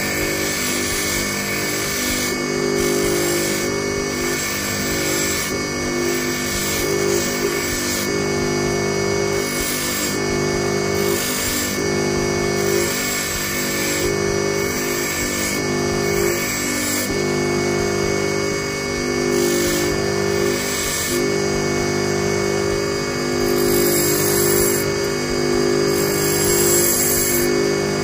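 Electric bench grinder running steadily with its motor humming, as a thin metal wire for a fishing hook is pressed against the grinding wheel. The grinding contact adds a high scraping hiss in repeated short strokes every second or two.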